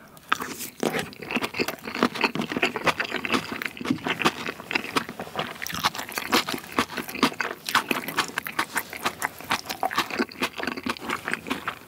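Close-miked chewing of a large mouthful of food soaked in spicy tteokbokki sauce: rapid wet smacks and soft crunches, several a second.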